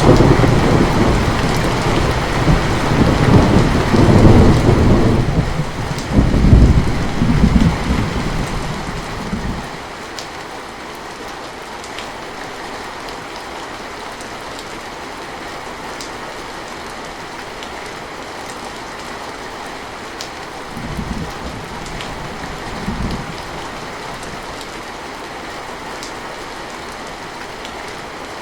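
Steady heavy rain with a long roll of thunder at the start that rumbles for several seconds and fades away, then rain alone with two brief low rumbles of thunder in the second half.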